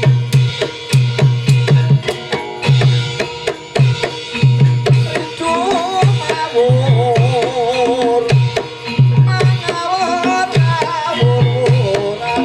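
Javanese gamelan music driven by kendang hand drums, beating fast groups of deep strokes. From about halfway in, a wavering melody line joins over the drumming.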